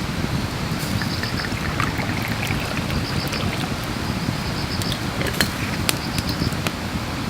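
Wood fire crackling, with scattered sharp pops over a steady low rushing noise. A high chirping repeats in short runs.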